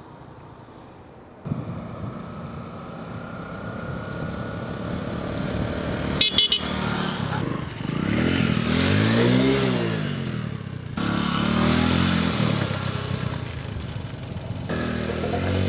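Bajaj Boxer 150's single-cylinder four-stroke engine revving up and dropping back several times as the motorcycle is ridden hard. A brief high-pitched sound about six seconds in is the loudest moment.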